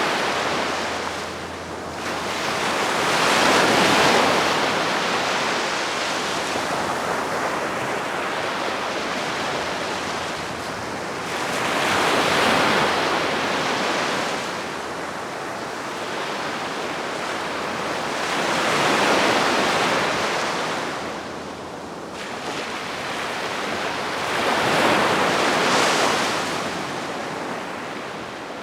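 Calm sea waves breaking and washing up the shore, surging in four swells about every seven seconds with a steady wash between them.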